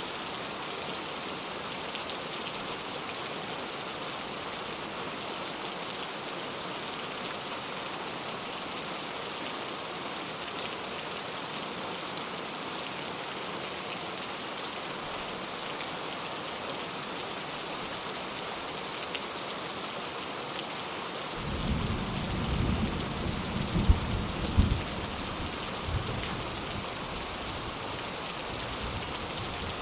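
Steady rain falling. About two-thirds of the way through, a deep rumble of thunder sets in, with two sharp loud peaks close together, then goes on rumbling more softly.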